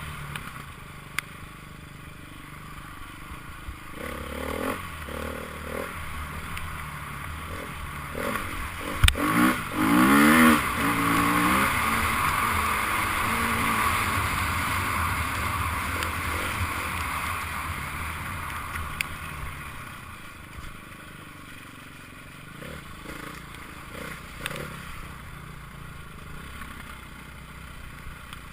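Enduro motorcycle engine revving hard as it comes close, loudest about ten seconds in with the pitch rising and falling through the gears, then fading away.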